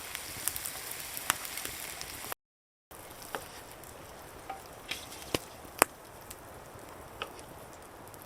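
Food sizzling in a pan over a campfire: a steady hiss with sharp crackles and pops scattered through it. The sound drops out completely for about half a second around two and a half seconds in.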